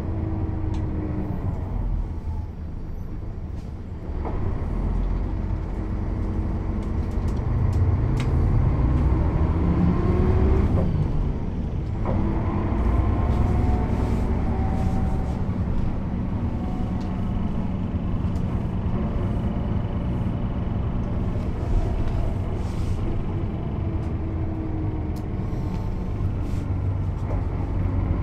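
Mercedes-Benz O 407 city bus's diesel engine pulling the bus along with its manual gearbox: the engine note climbs steadily for a few seconds, breaks off at a gear change about twelve seconds in, then runs on evenly, with occasional clicks and rattles.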